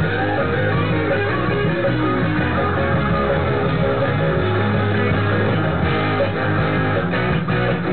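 Rock music with electric guitar, a full band playing continuously.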